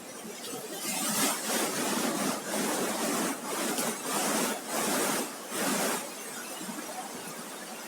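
Surf washing up a sandy beach: a hissing surge that swells about a second in, pulses unevenly, and falls back to the steady background wash near six seconds.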